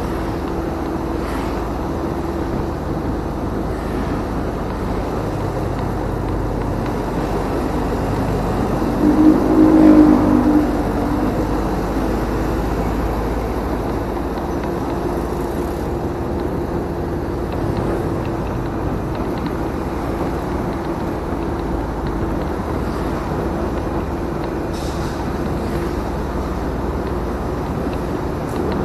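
Motorcycle riding along a road, heard from a bike-mounted action camera: a steady engine drone over wind and road rumble. About a third of the way through it briefly swells louder with a pitched tone, as from a passing vehicle or horn.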